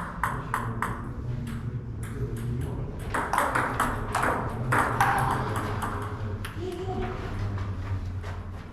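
Table tennis ball clicking back and forth off paddles and table in a fast rally, sharp light ticks about three a second, with faint voices in the hall.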